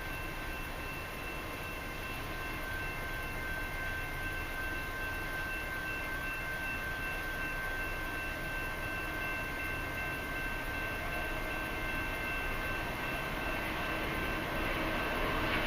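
Approaching diesel-hauled freight train: a steady rumble that slowly grows louder, swelling most near the end, with a few faint steady high tones over it.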